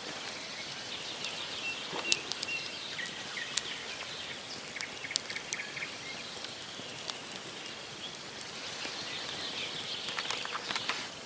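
Wood campfire crackling, burning logs giving off scattered sharp pops, two of them louder about two and three and a half seconds in. Small birds chirp faintly in the background.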